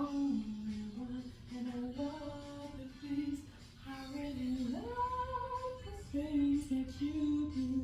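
A woman singing a slow melody unaccompanied, sliding up to a held high note about five seconds in and then stepping back down.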